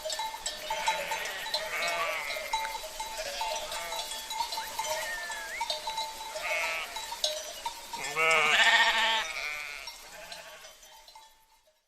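A flock of sheep bleating several times, the loudest bleat about eight seconds in, over the constant clinking of bells worn by the animals. The sound fades out near the end.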